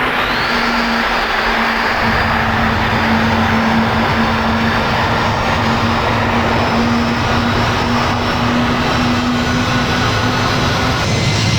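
Airliner engines running loud and close: a steady rush of noise with a constant low hum and a faint high whine.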